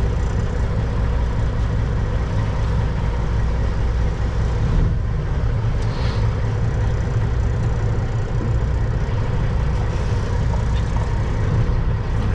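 Kenworth W900 semi truck's diesel engine running with a steady low drone, with a single short knock about five seconds in.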